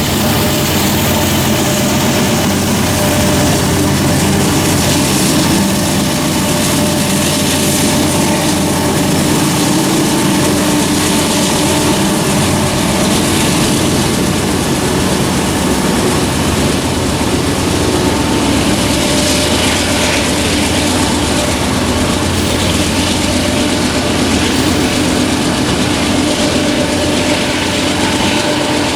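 Coal train passing, a diesel locomotive's engine running steadily over the continuous rumble of rail cars on the track.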